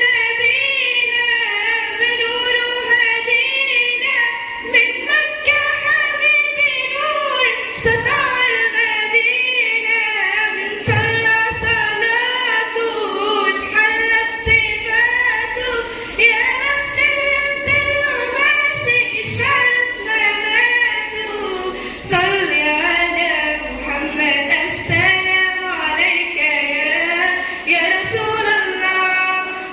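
A young girl's solo voice singing an Islamic nasheed in praise of the Prophet Muhammad, in long, ornamented phrases whose pitch glides and wavers.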